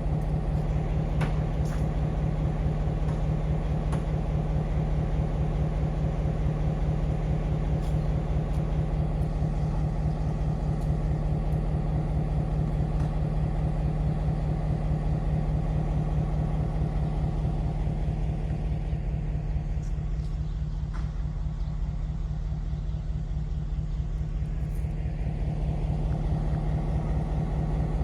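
An engine running steadily, a constant low drone with an even fine pulse.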